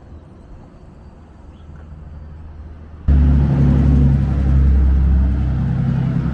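A faint, steady low hum, then, about three seconds in, a sudden loud, steady low rumble with a hum in it, like a nearby vehicle engine running.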